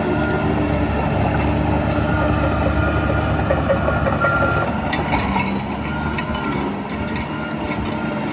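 Heavy diesel engine of earthmoving machinery running steadily, with a few short metallic clinks and squeaks about five seconds in.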